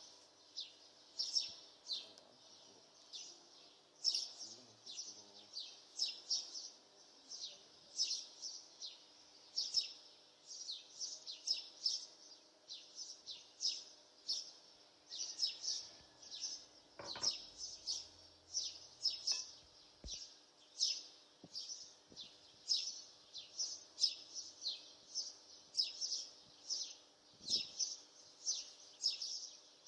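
A bird chirping over and over, short high downward chirps in quick clusters of two or three, with a faint steady hum beneath.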